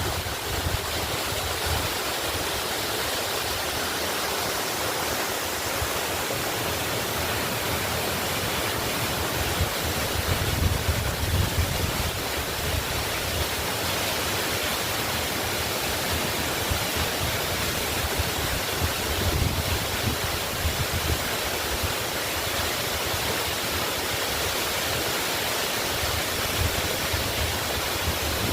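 Waterfall: a steady, even rush of falling water, swelling now and then with a low rumble.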